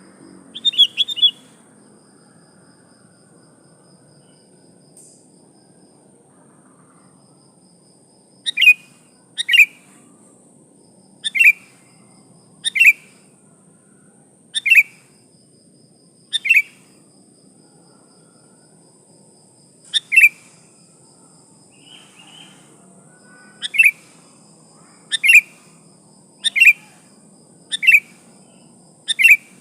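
Female sooty-headed bulbul (kutilang) calling: a quick run of chirps, then after a pause short sharp down-slurred calls repeated about every second or so. It is the call a female gives to attract a male.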